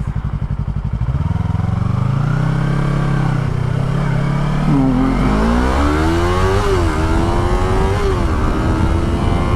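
Motorcycle engine accelerating through the gears over wind rush. The pitch climbs, then drops at upshifts about five, six and a half and eight seconds in.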